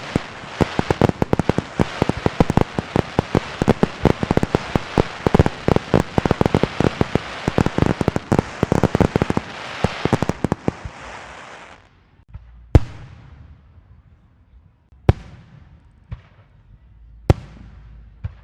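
A string of firecrackers popping in a rapid, dense crackle that stops abruptly about twelve seconds in. It is followed by four separate firework bangs a second or two apart, three of them loud, each with an echoing tail.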